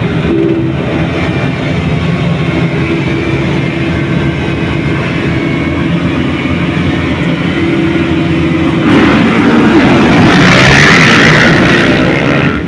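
Motocross bikes' engines running hard at high revs. About nine seconds in the sound turns louder and noisier for a few seconds, as a bike passes close.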